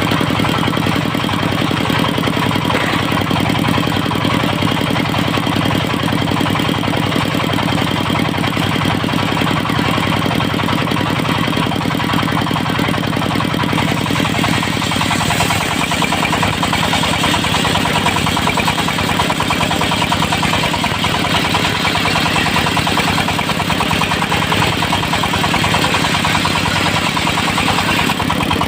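The engine of a portable circular sawmill runs steadily, with an even firing rhythm. About halfway through, its pitch shifts and a higher hiss grows stronger.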